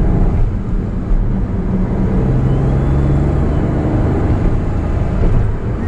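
Honda S660's turbocharged 658 cc three-cylinder engine running at road speed, heard from inside the cabin together with tyre and road noise.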